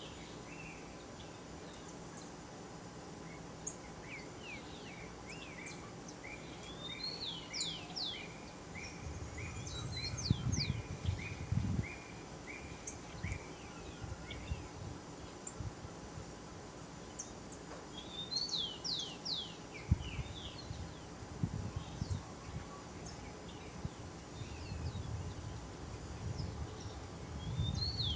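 Wild forest birds calling: a run of short repeated notes, a little under two a second, and several quick clusters of sharp falling whistles. Low rumbling thumps come and go from about a third of the way in.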